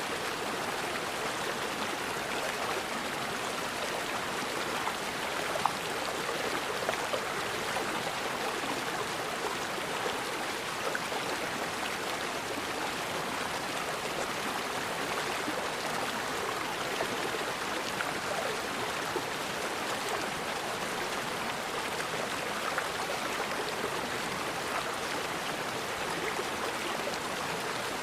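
Forest river flowing steadily over rocks, with a few small splashes standing out now and then.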